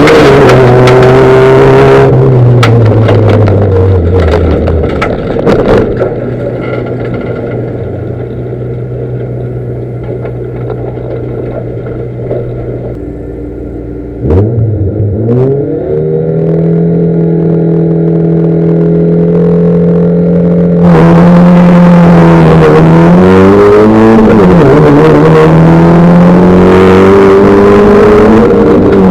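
Rallycross car engines. The engine note falls away a few seconds in and settles to a quieter steady hum. About halfway it revs sharply up to a held high pitch. About two-thirds through it turns much louder, with the revs dipping and climbing again.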